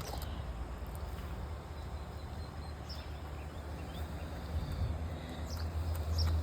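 Low, uneven rumble of wind buffeting the microphone, growing stronger near the end, with a few faint high chirps above it.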